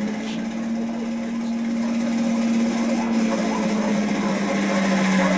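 Helicopter engine and rotor running steadily as a film sound effect: a continuous droning hum over a rough mechanical rattle, dropping slightly in pitch near the end.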